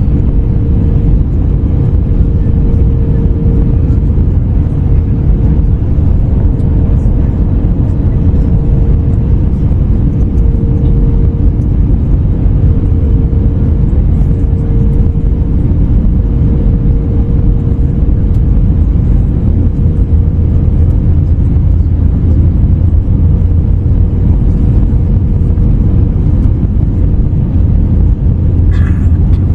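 Steady cabin noise inside an Airbus A321neo airliner: a deep, even rumble of airflow and its Pratt & Whitney PW1100G geared turbofan engines, with a steady hum that fades about two-thirds of the way through.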